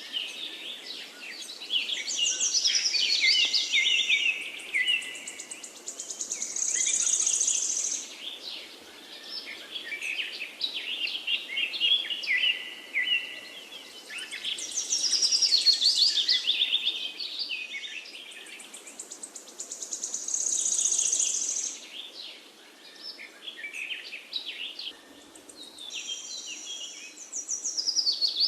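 Songbirds singing: long, rapid phrases of high notes and trills, with a high buzzy trill coming back several times, over a faint steady background hiss.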